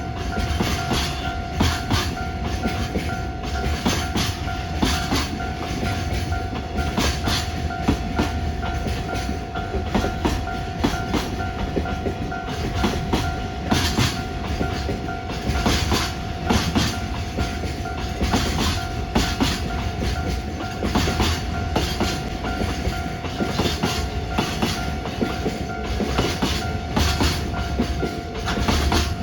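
Train running by with wheels clacking over the rail joints, under a steady rumble. A Japanese level-crossing alarm rings throughout, a steady pulsing tone.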